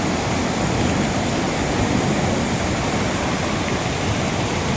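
Rushing water of a rain-fed stream or waterfall, a steady, even roar of water.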